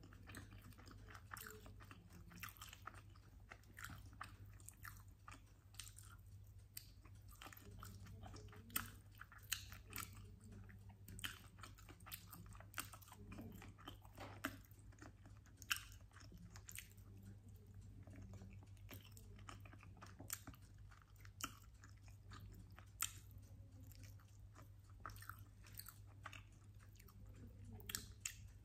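Quiet, close-miked chewing and biting on sauce-glazed chicken wings, with irregular sharp crunches and clicks as meat is bitten and picked off the bones.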